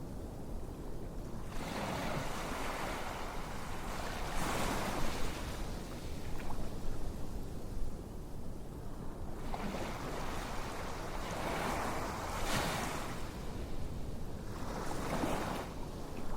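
Ocean waves washing in and drawing back, the hiss of surf swelling and fading every several seconds.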